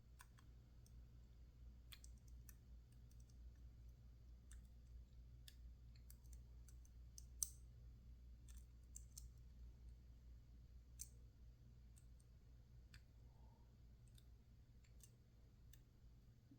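Faint, scattered clicks of lock picks working the pins inside a PacLock 410 Pro padlock, the sharpest about seven and eleven seconds in, over a low steady hum.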